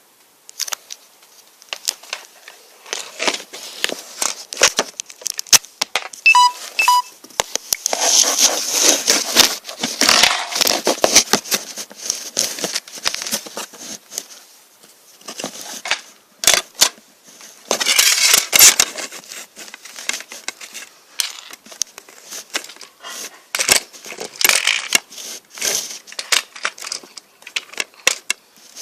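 Loose plastic Lego bricks clicking and clattering as hands rummage and sort through pieces, with irregular rustling and busier stretches about eight and eighteen seconds in.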